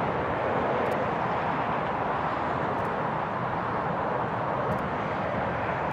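Steady rushing noise of jet aircraft engines, holding an even level without rising or falling.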